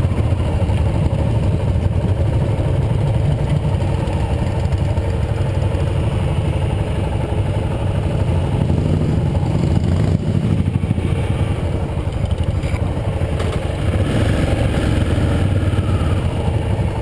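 Yamaha XT 660R's single-cylinder engine running steadily, with a brief dip in loudness about ten seconds in.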